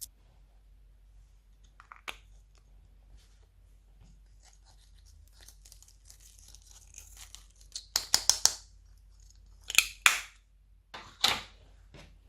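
Slime being worked by hand: faint sticky crackling, then a quick run of sharp pops and snaps about eight seconds in, with louder squelching bursts near ten and eleven seconds.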